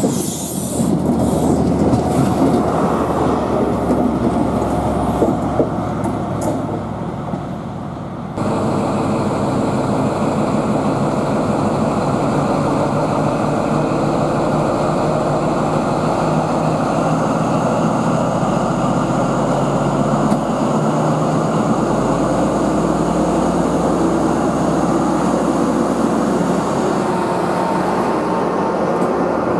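A train running at the station, a steady loud noise of engine and wheels, which changes abruptly about eight seconds in.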